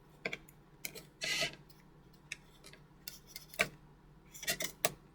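Latex modelling balloons being handled and rubbed: scattered light clicks and taps, with a short scratchy rub about a second and a half in.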